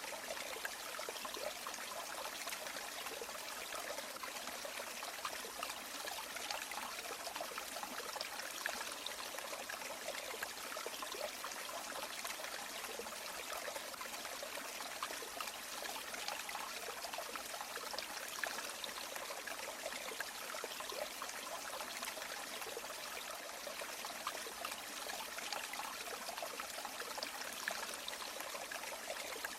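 River or stream water running steadily over stones, a constant rushing with fine trickling and splashing detail.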